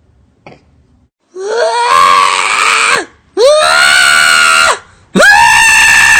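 Cat yowling: three long, loud cries, each rising in pitch at its start, with short pauses between them.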